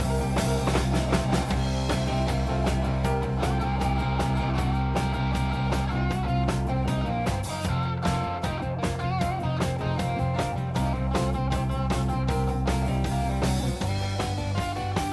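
Live band playing a blues-rock song with guitar and drums over a steady bass line that changes note about halfway through and again near the end.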